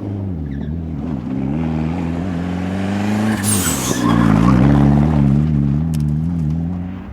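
Rally car engine revving up and down through the gears, coming closer and growing loudest about halfway, then fading away. A short loud hiss cuts in about three and a half seconds in.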